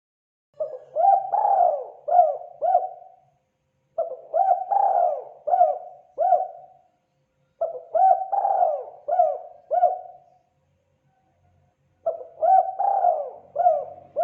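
Spotted dove (terkukur) cooing: the same phrase of several hooting coos, each about three seconds long, repeated four times about every three and a half seconds.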